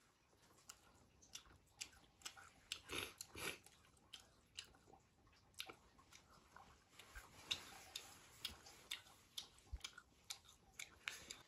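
A person chewing and eating grilled fish: soft, irregular mouth clicks and small crunches, busiest about three seconds in.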